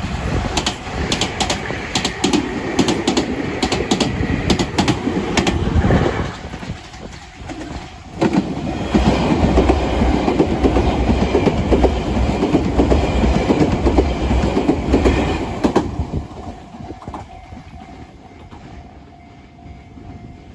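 Electric trains passing close by. Wheels clatter over rail joints for about six seconds. After a short lull, a louder pass with a deep rumble starts abruptly around eight seconds in and fades away after about sixteen seconds.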